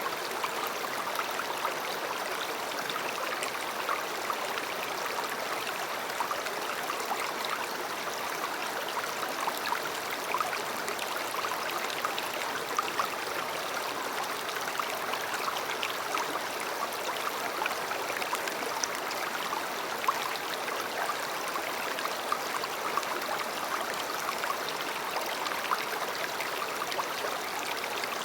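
River water running over stones: a steady rushing and babbling with many small splashes and trickles.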